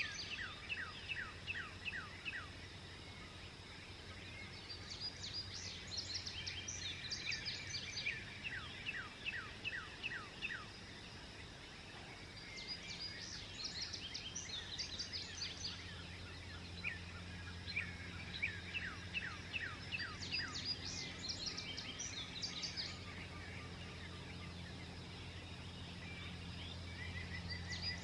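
Songbirds singing at dawn: repeated bursts of quick, descending whistled notes that come in phrases a few seconds long, about every six to seven seconds, over a steady low hum.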